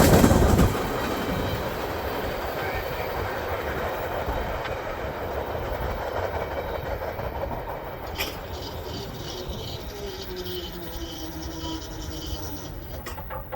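Empty welded rail train's cars rolling past, wheels clattering over rail joints; the sound drops shortly after the start and then slowly fades as the train moves away, with one sharp click about eight seconds in.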